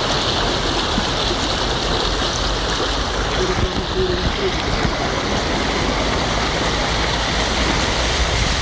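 Car driving through deep floodwater: a steady rush and wash of water around the wheels and body.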